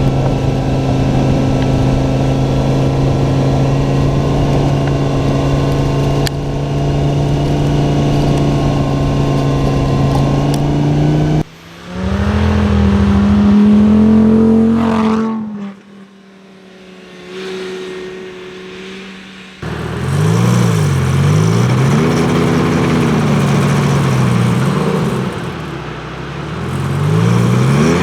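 Lamborghini Gallardo V10 engine, first running at a steady pitch for about eleven seconds. After a sudden break it revs hard with a rising pitch, goes quieter for a few seconds, then revs up and down again and again.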